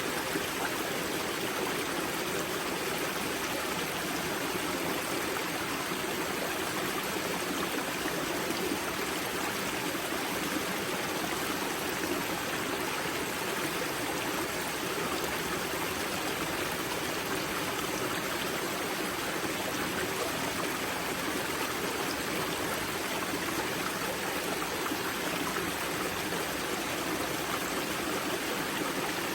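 Spring-fed mountain stream at the source of the river Grza, water rushing and splashing steadily over rocks.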